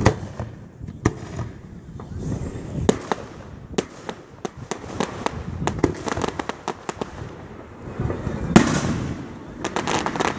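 Aerial fireworks shells bursting: a string of sharp reports and quick pops, thickest in the middle, with a louder bang near the end.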